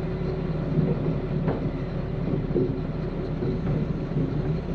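A heavy engine running steadily with a low rumble, and one brief tick about one and a half seconds in.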